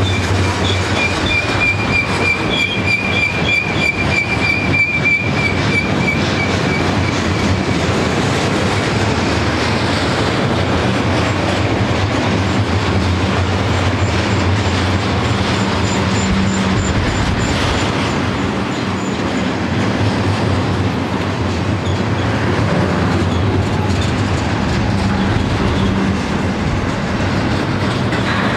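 Double-stack intermodal freight train's loaded well cars rolling past close by, a steady loud noise of steel wheels on rail. A high, steady squeal rides over it for the first several seconds, and a fainter one comes about halfway through.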